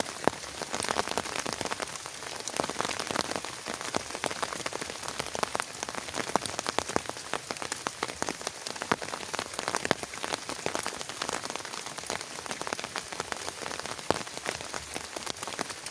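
Heavy rain falling on a surface: a steady hiss thick with individual drop hits.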